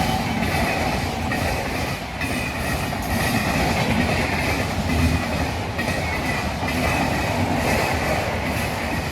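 Express passenger train of LHB coaches running past at speed, a steady rumble of wheels on rail with clatter that comes round again every second or so as the bogies pass.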